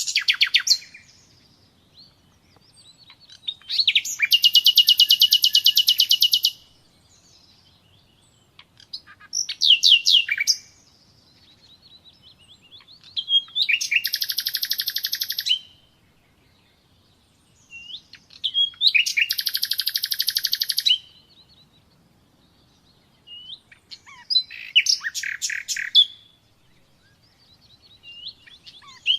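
Common nightingale singing: a string of short phrases of fast trills and rapid repeated notes, each lasting one to three seconds, with a pause of a couple of seconds between phrases.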